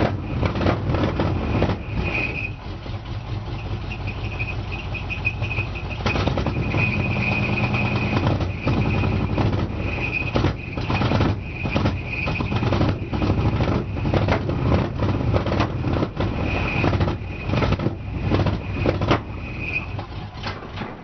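1987 GMC Sierra 1500's 350 V8 with a Holley four-barrel carburettor running at idle. A faint high whine comes and goes above the engine note.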